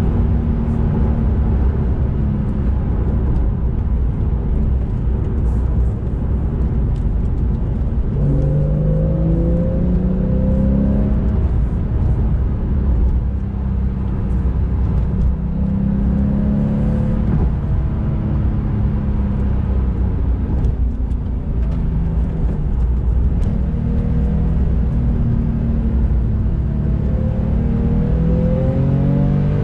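2013 Porsche 991 Carrera S's 3.8-litre flat-six engine and road noise heard from inside the cabin while driving, the engine note rising in pitch under acceleration three times: about a quarter of the way in, around the middle, and near the end.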